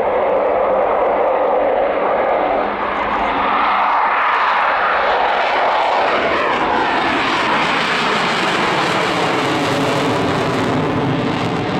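Jet aircraft flying past at an air display, a loud steady engine rush whose tone sweeps down and up as it passes.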